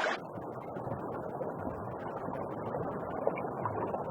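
Muffled underwater water noise: a steady low rushing with faint scattered clicks. The sound turns dull just after the start, as though heard from below the surface.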